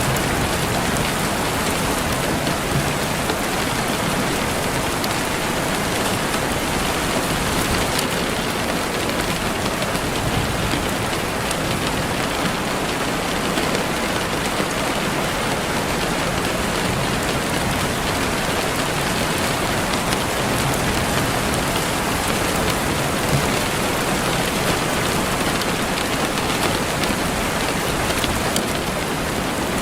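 Steady rain falling on a surface: an even hiss with scattered small drop ticks, keeping a constant level.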